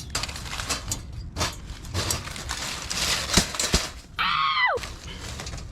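Rustling and scuffling, with a couple of sharp knocks, then a short high-pitched cry that falls in pitch about four seconds in.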